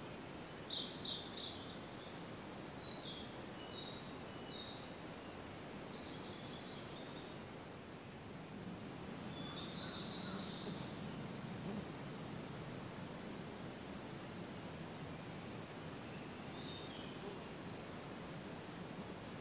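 Several wild songbirds singing and calling: clusters of high chirps and short whistled notes, with a quick run of repeated high notes in the second half, over a steady outdoor hiss.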